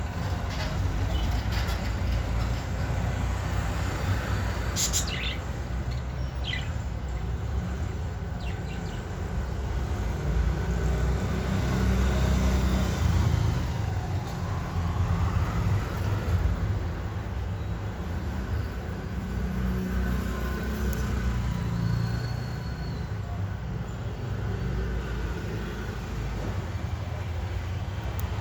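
A few short budgie chirps over a steady low rumble that swells a little midway.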